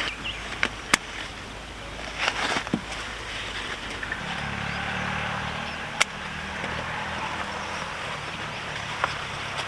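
A low, steady motor hum sets in about four seconds in and keeps running, over an outdoor background with a few sharp clicks here and there.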